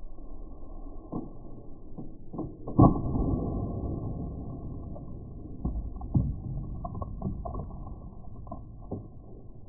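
An air gun shot and pellet impacts, heard muffled and deep: one loud sharp bang about three seconds in with a rumbling tail, among several lighter clicks and knocks.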